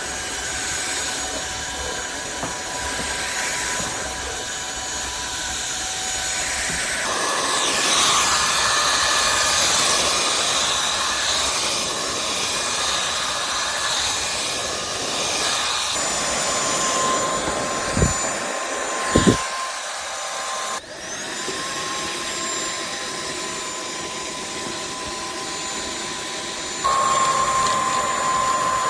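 Cordless stick vacuum running with a steady motor whine, its pitch and level shifting abruptly several times. Two sharp knocks come close together about two thirds of the way through.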